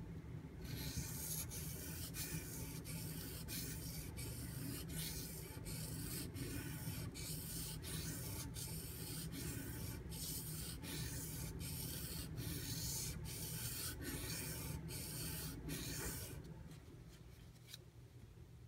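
Steel knife blade stroked back and forth on a Shapton Pro waterstone: a steady run of gritty scraping strokes, about one and a half a second, stopping about 16 seconds in.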